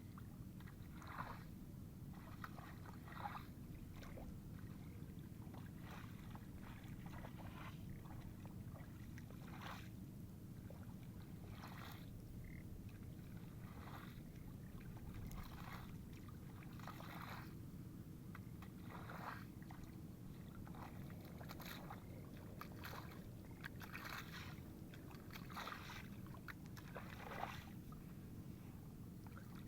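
Irregular splashing strokes in water and wet mud, about one every second or two, over a steady low rumble.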